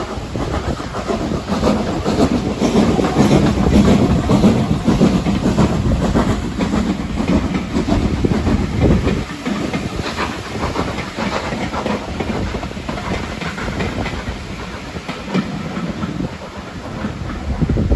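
Steam train running on the line, loudest about three to five seconds in and easing after about nine seconds into a steadier, quieter run.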